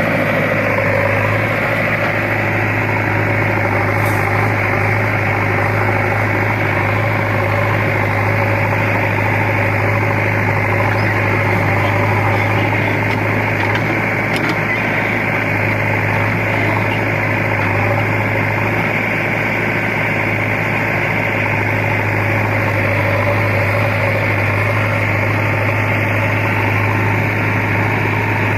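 Heavy diesel engine running steadily at an even speed, a constant low hum with no revving.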